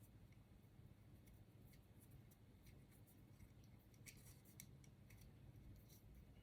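Near silence with faint, scattered small clicks as the extruder's parts and bolts are handled, a few slightly louder ticks about two-thirds of the way through.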